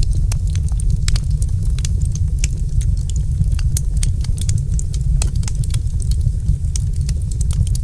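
Wood fire crackling, with many irregular sharp snaps and pops, over a steady deep rumble.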